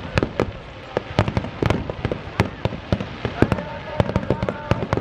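Aerial fireworks shells bursting in a rapid barrage: many sharp bangs and cracks, several a second, overlapping with each other.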